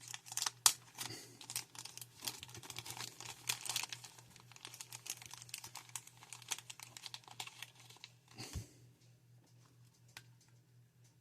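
Crackling and clicking of a plastic bag being opened and small plastic toy parts handled. It is dense for about eight and a half seconds, then thins to a few clicks, over a low steady hum.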